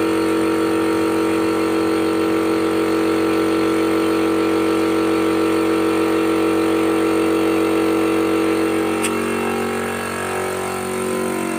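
An engine running at a steady speed with a constant, even hum. It eases off and drops a little about nine seconds in, and there is a brief tick just before.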